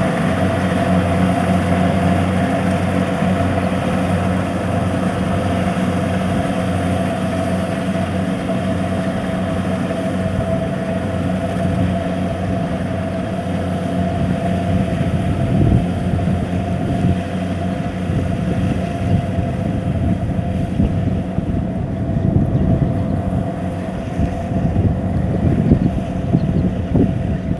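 Kubota DC-70 combine harvester running steadily: a constant engine drone with a steady whine over it, and more uneven low rumbling in the second half.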